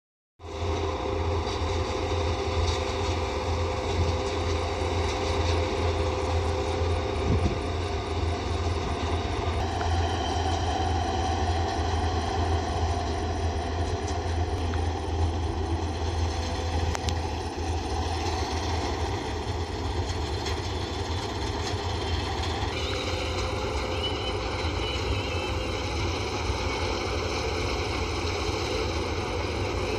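Gurdail combine harvester running steadily, its engine hum and the whirr of the threshing machinery going together. The sound changes abruptly twice, about ten seconds in and again about twenty-three seconds in.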